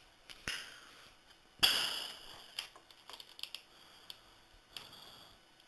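A handful of sharp computer-mouse clicks spread through the few seconds, with one louder, short rustling burst about a second and a half in that fades over most of a second.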